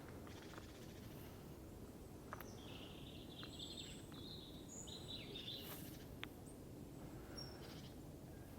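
Faint birdsong: a small bird twittering for a few seconds in the middle, with a few higher whistled notes, over a low steady outdoor background.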